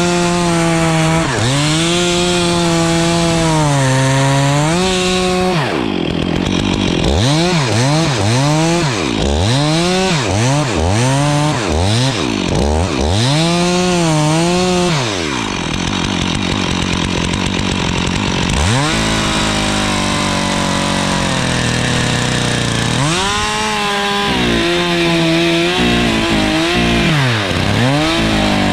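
Stihl chainsaw cutting dead spruce, its engine pitch repeatedly dropping under load and climbing back as the chain bites into the wood. In the middle come quick throttle blips, then a few seconds at a lower steady speed before it runs high again and resumes cutting.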